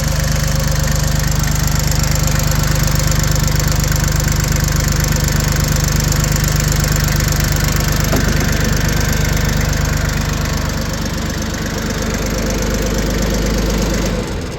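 Yanmar YM1720D compact tractor's diesel engine running steadily, its exhaust clean with no smoke. The sound cuts off suddenly near the end.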